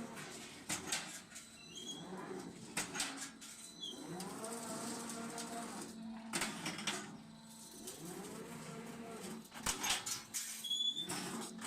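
Steel scaffold-plank roll forming machine running: a steady motor hum with repeated sharp metal clanks, and several drawn-out tones that rise and then fall.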